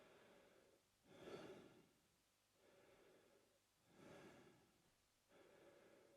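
A man breathing slowly and faintly through his mouth: five breaths in and out, each under a second long, with every other breath louder.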